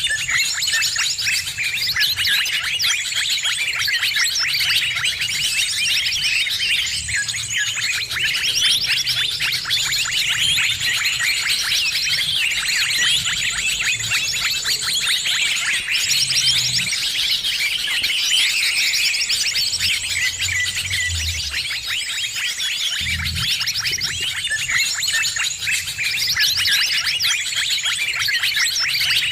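Dense, noisy chorus of many small birds chirping and twittering at once, without a break: a bird-lure recording (suara pikat) played to call in wild birds.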